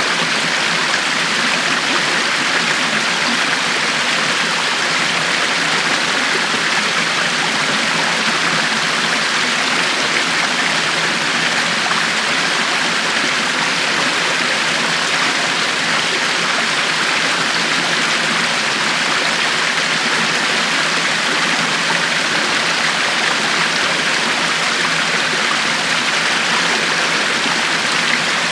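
River water flowing steadily, a constant rushing and babbling with no breaks.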